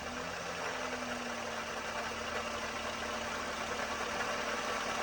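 Toyota 1ZZ-FE 1.8-litre four-cylinder engine settling from a rev to a steady idle, its revs falling in the first half second. This is the engine the owner is recording for a noise or rattle.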